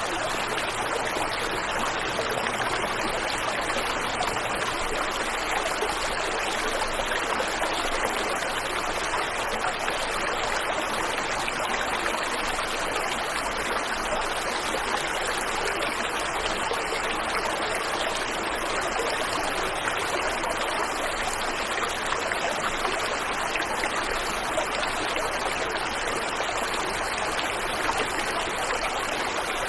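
Waterfall and river water flowing, a steady, even rush with no separate splashes or breaks.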